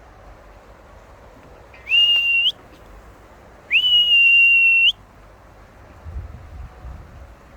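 Two loud, high whistles, a short one and then a longer one, each sweeping up at the start and then holding one pitch: a recall whistle calling a free-flying scarlet macaw back.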